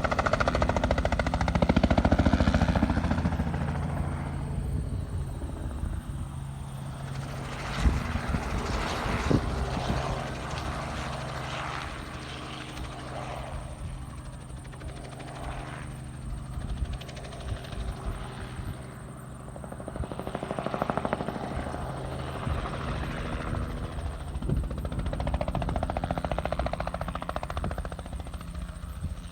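An engine runs steadily with a low hum, its sound swelling and fading in turn as the spraying machine moves about. There are a couple of sharp knocks about eight and nine seconds in.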